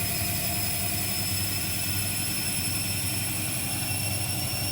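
Bosch Series 2 washing machine in its balancing spin, the drum turning slowly to spread an awkward load of bottles before spinning up: a steady low hum with a faint high whine.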